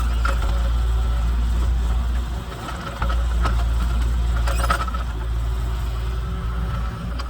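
Kubota KX033 mini excavator's diesel engine running steadily while it works, with a few sharp knocks from the machine and its bucket. The engine briefly drops in level a little over two seconds in.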